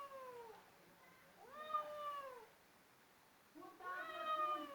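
Domestic cat meowing in drawn-out, complaining calls: the end of one meow, then two more, each about a second long and dropping in pitch as it trails off. The cat sounds annoyed.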